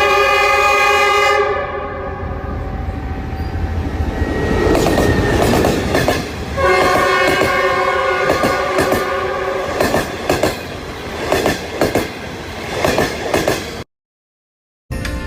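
Train horn sounding and fading out, then a passing train's wheels clattering over rail joints. The horn sounds again for several seconds over the clatter. The sound cuts out briefly near the end.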